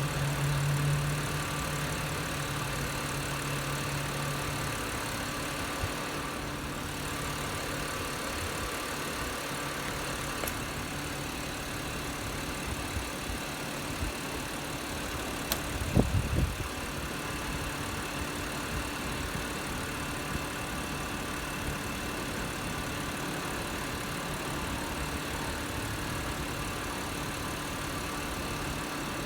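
BMW E90 328i's inline-six engine idling steadily with the air conditioning running. A sharp click and a short thump about sixteen seconds in.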